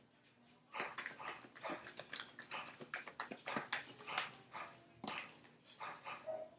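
A dog making a run of soft, irregular short sounds close by.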